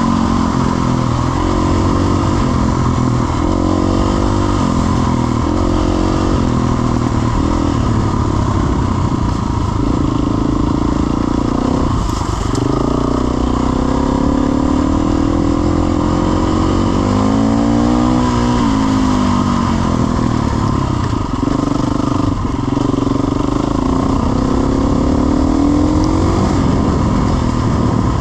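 Off-road dirt bike engine running hard, its revs rising and falling again and again as it is ridden.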